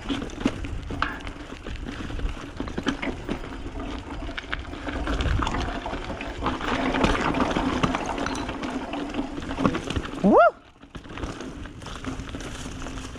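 Mountain bike riding down a rocky trail: steady tyre and wind noise with frequent knocks and rattles as the bike goes over rocks, ending in a loud rising 'woo!' shout about ten seconds in.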